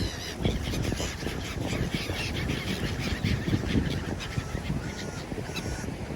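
A flock of birds calling, with many short, high calls overlapping throughout, over a low rush of wind.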